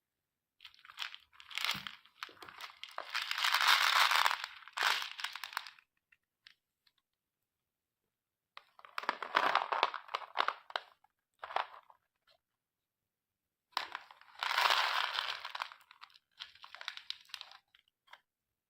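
Crinkling, rustling handling noise in three bouts of a few seconds each, the loudest about four seconds in.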